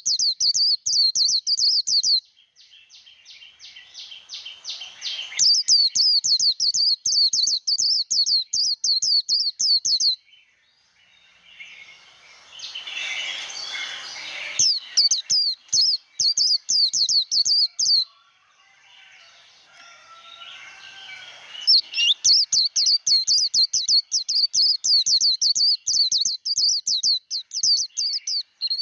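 White-eye singing its fast, high-pitched trilled 'líu' song in long runs of several seconds each, with softer twittering in the pauses between runs.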